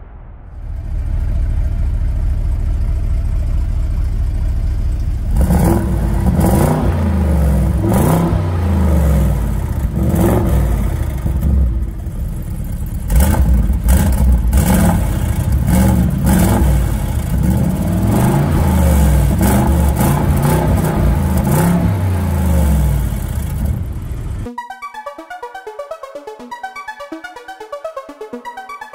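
Porsche Cayenne Turbo's 4.0-litre twin-turbo V8 idling for about five seconds, then revved again and again through its quad exhaust, the pitch climbing and falling with each rev. Electronic music takes over in the last few seconds.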